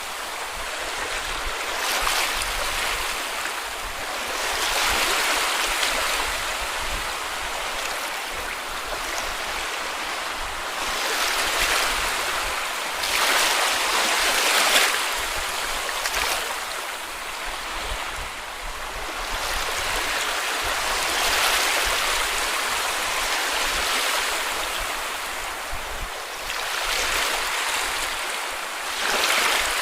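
Sea waves breaking and washing up on a beach, swelling and fading every few seconds, with the loudest surge about halfway through.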